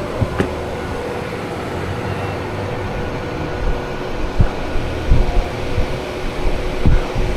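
Steady mechanical hum, with a few dull low thumps.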